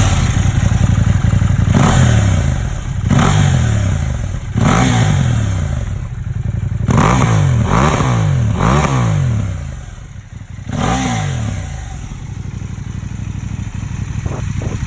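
KTM 790 Adventure's parallel-twin engine running through an Akrapovič muffler taken from a 1290 Super Duke, revved in a series of quick throttle blips that each rise and fall in pitch, then settling to idle for the last few seconds.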